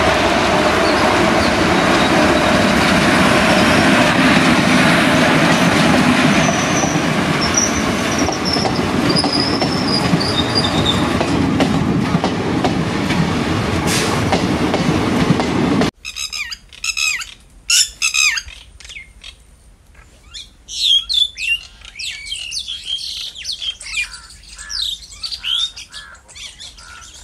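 A passenger train hauled by a WAG-7 electric locomotive running past on the rails, a loud steady rumble of wheels and coaches. About sixteen seconds in it cuts off suddenly, and birds chirp for the rest.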